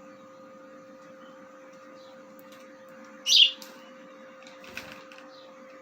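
A pet bird gives one short, sharp chirp a little past halfway, over a steady electrical hum; a few faint clicks follow.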